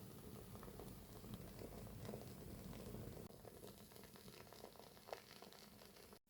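Wooden wick of a soy-wax candle burning with faint, irregular crackling like a small fireplace, with one slightly sharper pop about five seconds in.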